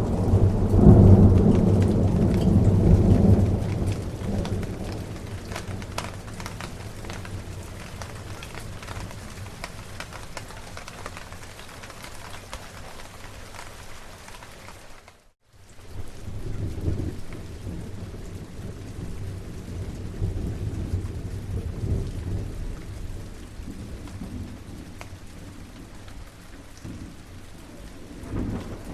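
Steady rain with thunder rumbling: a heavy, loud roll of thunder for the first few seconds, then rain with softer rumbles. The sound drops out completely for a moment about halfway through.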